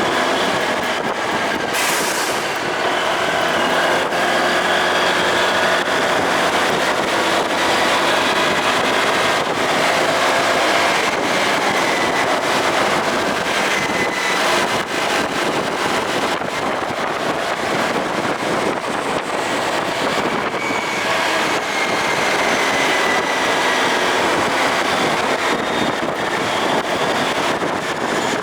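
Motorcycle under way: engine running with steady wind rush over the microphone and a faint tone that slowly shifts in pitch.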